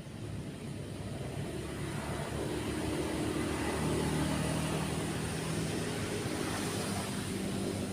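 A motor vehicle engine passing, growing louder over the first few seconds and then holding, over a steady wash of background noise.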